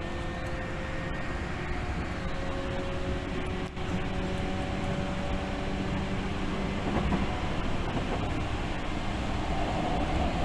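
Tokyu 8500 series electric train heard from inside a car while running: a steady rumble of wheels on rail, with faint motor whine tones that shift slowly in pitch.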